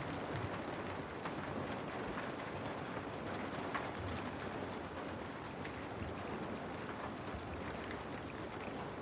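Steady rain on a window, an even hiss with scattered single drops ticking through it.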